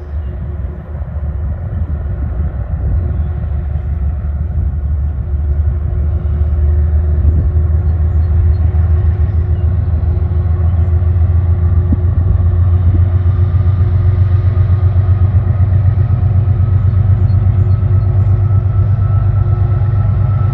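Diesel train's engine rumbling low and steadily, growing louder over the first several seconds as it approaches, then holding loud with a steady tone.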